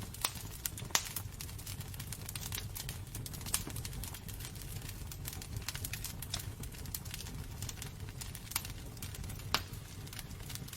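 Wood burning in a fireplace, crackling steadily with a few sharper pops, over a low steady rumble.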